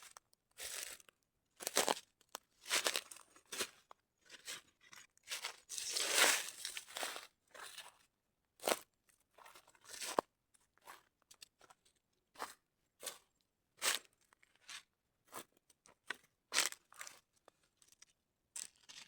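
Irregular crunching and rustling of something dry being handled, in short separate bursts with brief silences between them.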